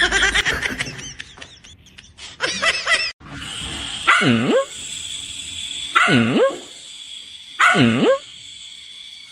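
A dog barking. First comes a quick run of short, high yips, then single barks repeated about every one and a half to two seconds.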